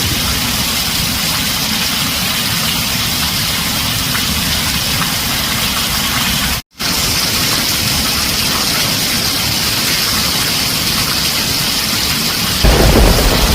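Heavy rain drumming on a tin roof, a steady dense hiss, broken by a split-second gap of silence about halfway through. Near the end a louder low rumble sets in under the rain.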